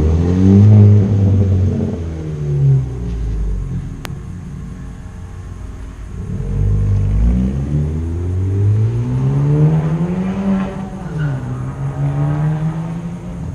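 Straight-piped exhaust of a 2017 Honda Civic Si's turbocharged 1.5-litre four-cylinder, muffler and resonator deleted. The engine note dips early on, then climbs in pitch for several seconds as it revs up, drops back and settles into a steady drone near the end.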